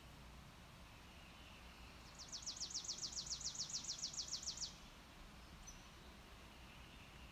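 A songbird's trill: a fast run of about seventeen quick notes, each sliding down in pitch, about seven a second, starting about two seconds in and lasting about two and a half seconds.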